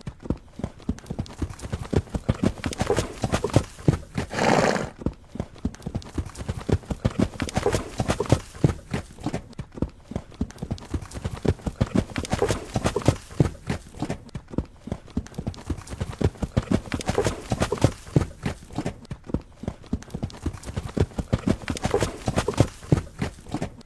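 Horse hooves galloping in a fast, rhythmic clip-clop, with one whinny about four and a half seconds in.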